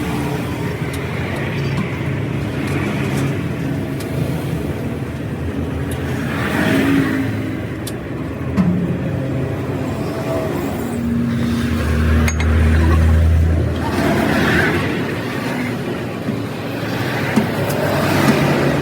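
A motor vehicle engine running steadily, swelling louder for a couple of seconds past the middle, with passing-traffic noise rising and falling.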